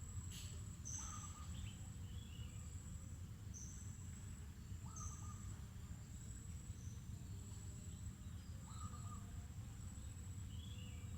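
Insects keep up a steady high-pitched drone while birds give short, scattered chirps and calls every second or two, over a low background rumble. A brief click comes just after the start.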